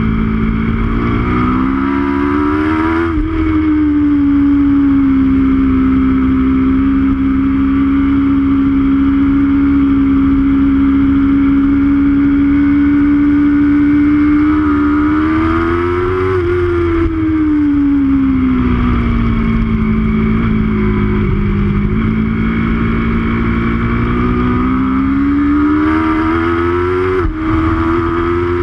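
Aprilia RSV4's V4 engine heard from on board. It climbs in pitch under acceleration and drops sharply at upshifts about three seconds in and near the end. Between those it holds a steady note through a long corner, then falls away as the throttle rolls off and pulls up again.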